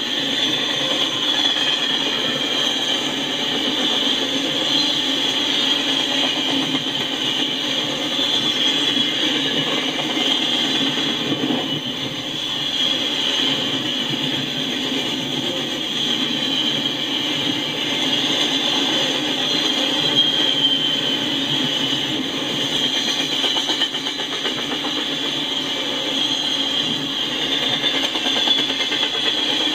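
Double-stack container freight train passing at a grade crossing: the steady running noise of its well cars and wheels on the rails, even and unbroken throughout.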